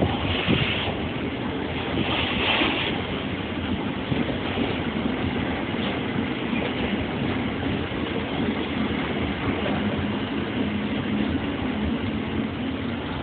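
Steady train noise: the rumble and rattle of a ballast train's wagons passing on a nearby track, with hissing surges in the first few seconds. A low steady hum comes in from about nine seconds on.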